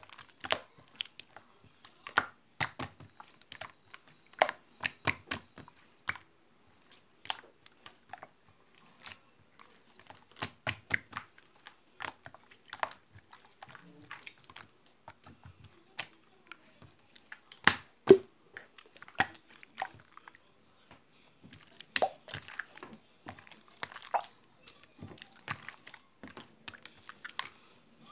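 Slime being squished and stretched by hand, making irregular wet clicks and pops, with a few louder pops.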